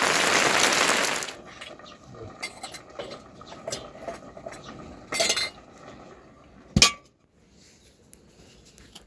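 Metal dishes and utensils clinking and clattering, opening with a loud rushing scrape for about a second and a half, then scattered light clinks and one sharp clank about seven seconds in.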